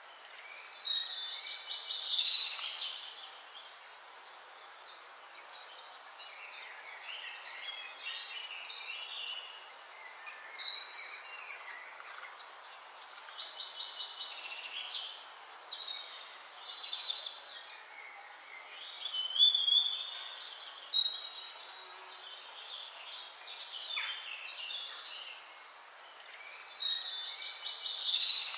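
Wild birds singing: short, rapidly trilling phrases every few seconds over a faint steady hiss.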